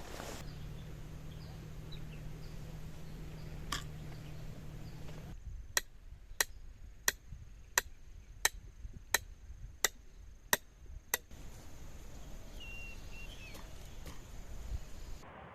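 A steady low hum, then eight sharp clicks evenly spaced about one and a half a second.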